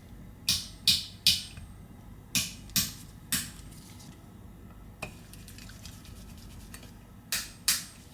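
Sharp clicks and taps of small repair tools and parts against an iPhone 11's metal frame while an antenna cable is fitted and fastened. They come in clusters: three in quick succession, three more a second or so later, a faint one, then two close together near the end, each with a brief ring.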